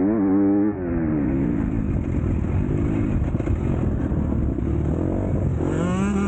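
Motocross bike engine under race throttle: it revs up and down, the throttle shuts off about a second in, and the engine runs rough and rumbling before revving up again near the end.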